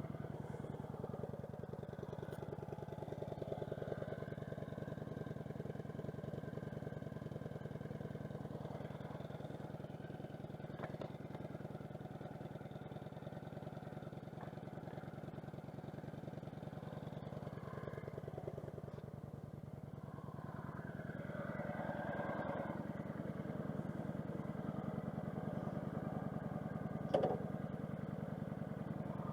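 Kawasaki motorcycle engine running at a steady, even pitch, a little louder for a while after about twenty seconds in, with a single sharp knock near the end.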